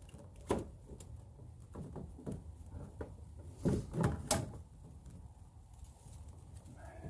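Scattered clicks and knocks of parts and tools being handled during an air-intake install, loudest in a short cluster around the middle.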